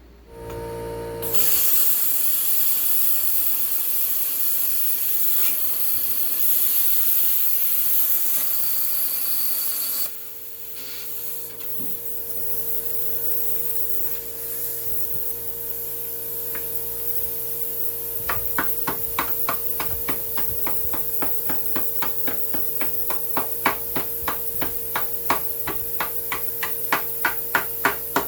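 A steady hiss for about the first ten seconds. From about two-thirds of the way in, a hand ratchet clicks in quick, regular strokes, about two to three a second, working on a rust-seized control arm bolt that will not come loose.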